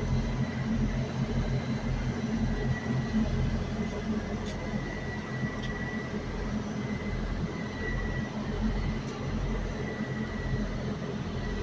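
Train interior hum from the diesel power unit running: a steady low rumble that swells and eases gently every second or two, with a thin steady high whine over it and a few faint clicks.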